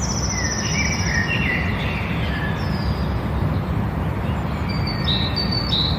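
Birds singing over a steady background rush of outdoor noise. A high trill and several whistled phrases come in the first two seconds, and a short two-note call, a high note then a lower falling one, repeats three times near the end.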